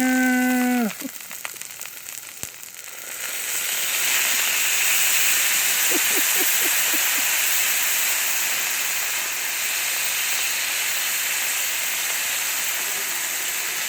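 Food sizzling on a hot Blackstone flat-top griddle. The sizzle starts loudly and suddenly about three seconds in and then holds steady.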